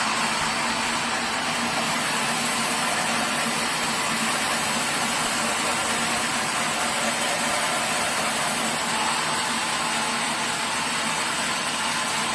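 Sawmill machinery running steadily: a constant mechanical drone with a hiss over it and no change in pitch or level.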